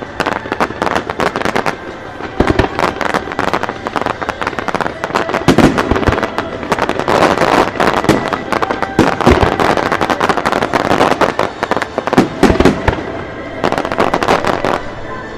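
Fireworks going off in a dense, continuous barrage of rapid cracks and bangs, with several heavier booms mixed in.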